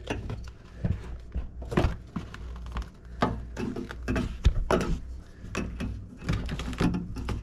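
Plastic rain guard (door vapor barrier) being peeled off the sticky butyl sealant of a Jeep Liberty door: a run of irregular crinkles, rustles and tacky tearing sounds. The seal is extra sticky, never having been off.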